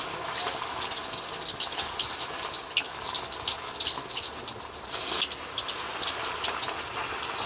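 Spring rolls (nem) sizzling and crackling as they fry in hot oil in a steel wok.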